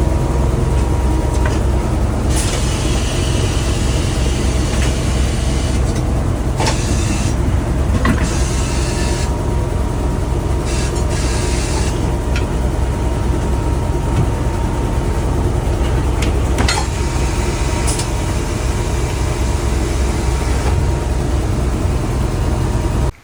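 A vehicle's engine running steadily with a deep low rumble, with several spells of hiss over it; it cuts off abruptly at the end.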